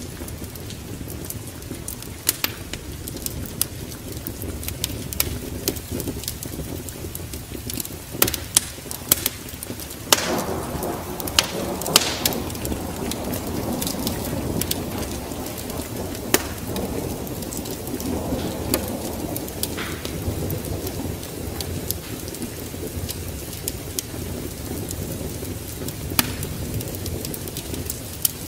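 Wood fire crackling with scattered sharp pops over a steady rain and wind noise, with a rumble of thunder swelling about ten seconds in and fading over the next several seconds.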